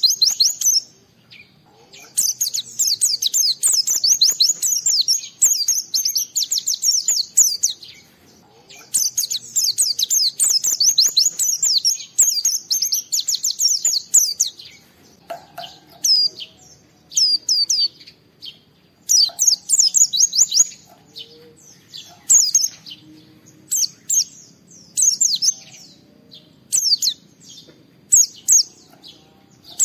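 White-eye (pleci) in full song: long, rapid strings of high chirping notes, the opening phrases several seconds long, breaking into shorter bursts with pauses from about halfway through.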